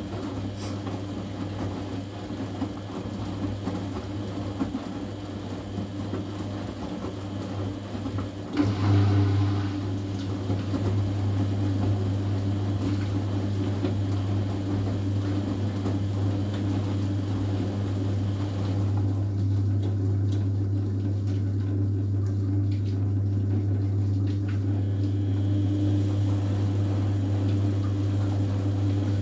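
A steady low machine hum. About eight and a half seconds in, a brief noisy surge comes and the hum then runs on louder.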